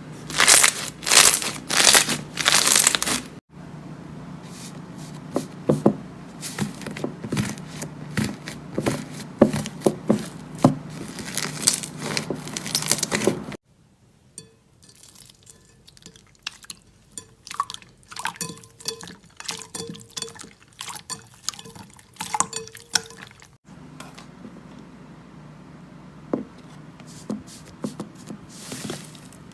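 Slime being squeezed, stretched and poked by hand, giving wet squishing with dense crackling and popping. The sound changes abruptly three times as one clip gives way to the next.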